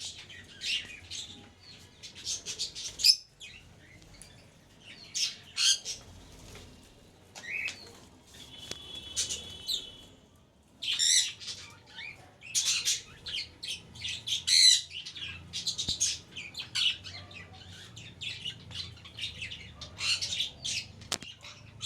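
Budgerigars chirping and squawking in repeated bursts of short, high calls, with quieter gaps in between.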